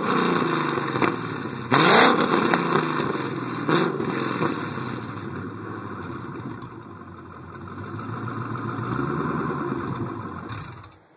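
2010 Ford Mustang GT's 4.6-litre V8 exhaust, fitted with BBK shorty headers, a BBK catted X-pipe and a Borla ATAK cat-back, being revved warm. There is one sharp rev about two seconds in, then the engine note falls back toward idle, with a gentler rise near the end before it cuts off suddenly.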